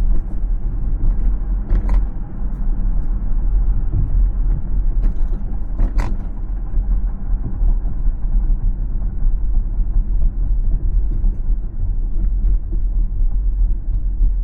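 Steady low road rumble of a car driving, tyres and engine running, with two short knocks about two seconds in and again about six seconds in.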